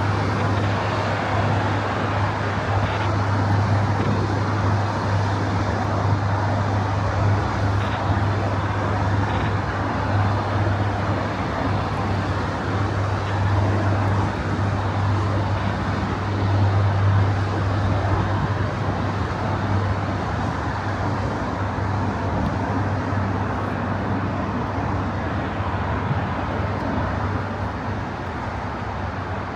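Steady road traffic noise: a continuous wash of passing vehicles under a constant low hum.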